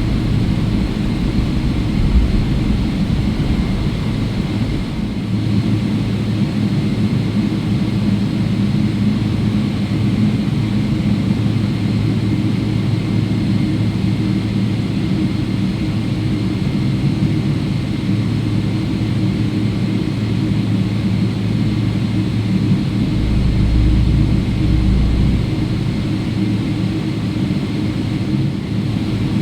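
Steady cabin noise of a Boeing 777-300ER taxiing after landing: the GE90 jet engines at idle thrust with the air-conditioning and airframe rumble, a low, even hum. A deeper rumble swells for a couple of seconds near the end.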